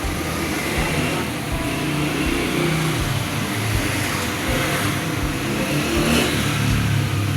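A vehicle engine running and revving.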